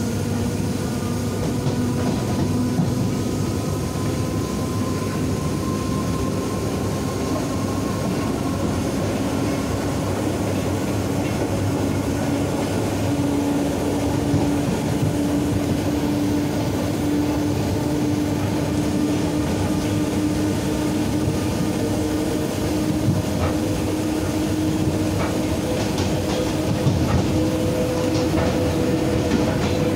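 Steady running noise of a moving electric train heard from inside the carriage, with a hum that slowly rises in pitch and a few sharp clicks near the end. A freight train of tank wagons runs close alongside.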